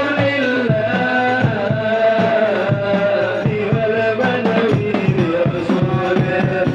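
Middle Eastern-style singing, a melodic line with long wavering held notes, over a steady beat of hand-drum strokes.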